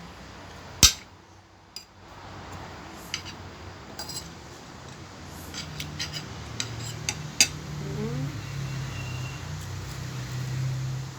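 Cutlery clinking and scraping against a plate during a meal: one sharp knock a little under a second in, then a string of small clicks and clinks, over a low steady hum.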